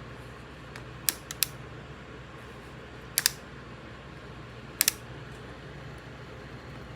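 A few sharp clicks, mostly in close pairs, about a second, a second and a half, three seconds and nearly five seconds in, over a steady low hum.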